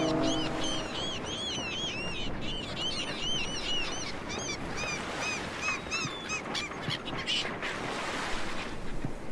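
A flock of birds calling, with many short, high calls that rise and fall in pitch several times a second, over a steady hiss. A low sustained chord dies away in the first half-second.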